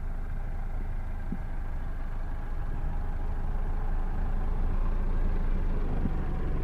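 Tractor engine running steadily, getting a little louder in the second half.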